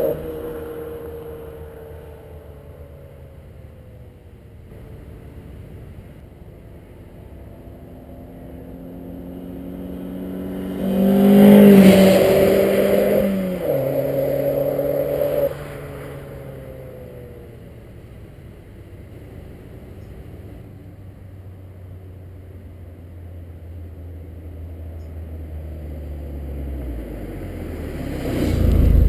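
MINI Cooper R56's 1.6-litre four-cylinder with a Remus aftermarket exhaust driving past under acceleration. The engine note rises as the car approaches and is loudest about 11 to 15 seconds in. It falls in pitch about 13 seconds in, then cuts back sharply and fades away. Another pass begins building near the end.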